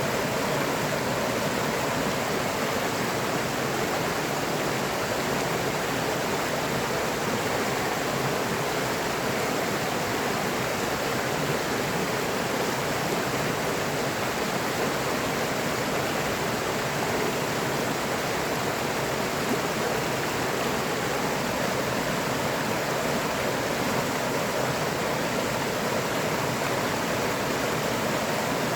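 A river or stream flowing over rocks, a steady unbroken rush of water with no changes.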